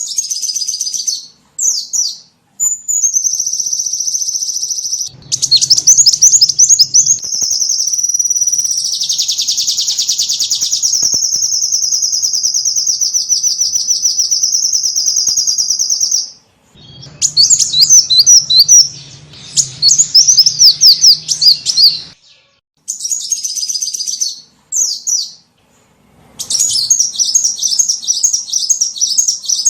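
Small songbird lure calls: loud, high-pitched rapid chirps and trills in bouts, including a long buzzing trill of about ten seconds, broken by several sudden short silences.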